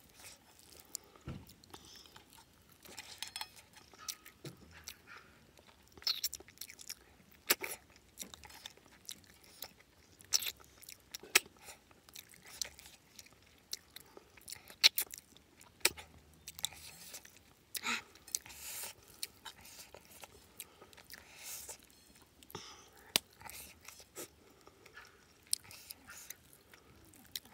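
Close-up eating sounds of a person chewing a meal of rice, snails and fish eaten by hand: steady chewing with irregular sharp mouth clicks and smacks.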